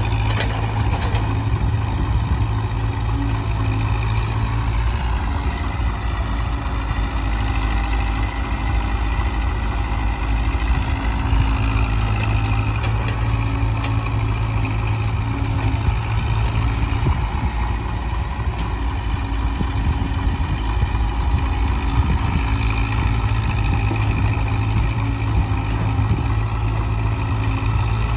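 Diesel engines running steadily at a low, idle-like speed, with a fainter whine that rises and falls now and then: a tractor and a JCB backhoe loader working together while sand is loaded.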